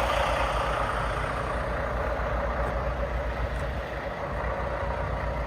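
Semi-truck's diesel engine idling steadily, with a low throb underneath.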